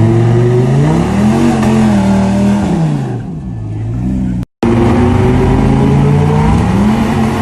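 A truck's engine revving loudly: the pitch climbs, holds for a second or so, then falls back. The sound cuts out abruptly about halfway through, then the engine rises and falls again.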